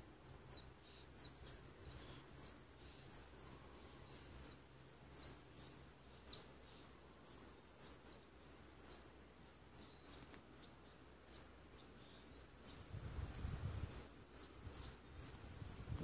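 Faint birdsong: a bird repeating short, high, downward-sweeping chirps steadily, a few times a second. A low rumble comes in during the last few seconds.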